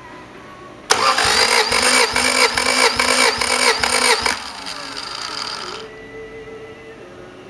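Honda D15B four-cylinder engine cranked by its starter motor for about three and a half seconds, pulsing evenly about four times a second as the cylinders come up on compression during a compression test. The cranking stops suddenly and the sound dies away over the next second or so.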